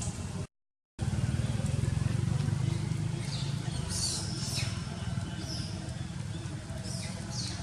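A motor running steadily with a low, even rumble, with a few short high squeaks about three to four seconds in and again near the end. The sound drops out completely for about half a second just after the start.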